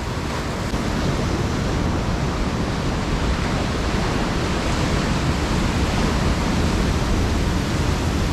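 Heavy surf breaking on the shore: a steady, loud wash of noise with no separate crashes standing out.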